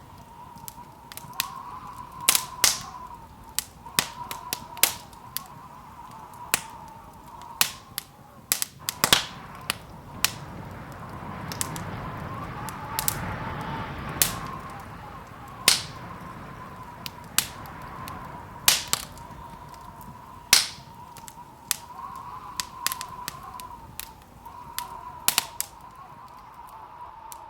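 Wood fire crackling in a fireplace: sharp, irregular pops and snaps, with a soft swell of rushing fire noise about halfway through, over a faint steady wavering tone.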